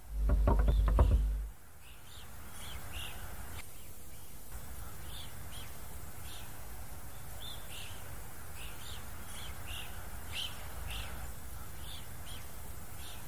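Small birds chirping, many short high chirps repeating irregularly over a steady outdoor background hiss. A brief louder low-pitched sound fills the first second and a half.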